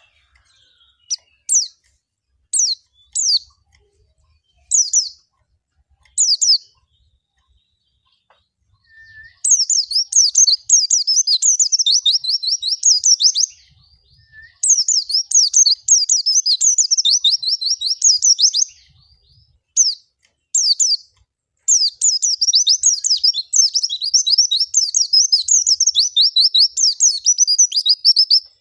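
A white-eye (pleci) singing in a high, rapid warble. It gives several short phrases first, then three long, fast trilling runs. This is the full, varied wild-type song used as a lure to set other white-eyes singing.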